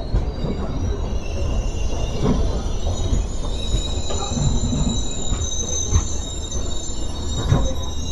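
Passenger train running on rails, heard from on board: a steady low rumble with a high-pitched steel wheel squeal and a few sharp knocks over rail joints.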